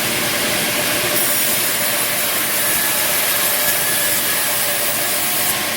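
Bandsaw sawmill cutting timber: a loud, steady rasping hiss of the band blade running through the wood. A thin high whine joins about a second in and stops near the end.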